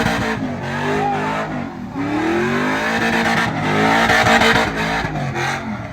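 Pickup truck engine revving hard, its pitch climbing and falling several times, over a steady rushing noise.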